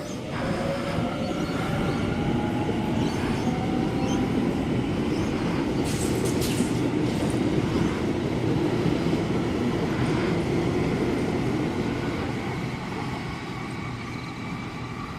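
Sydney Trains Waratah electric train pulling away from the platform. The whine of its traction motors rises in pitch over the first few seconds, then gives way to a steady rumble of wheels on rail, with a brief clatter about six seconds in. The sound fades toward the end.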